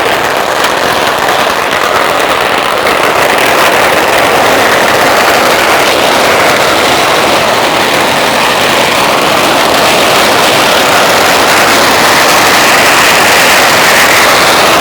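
A long string of firecrackers going off in continuous rapid fire, so dense that the bangs merge into one steady, very loud crackling roar.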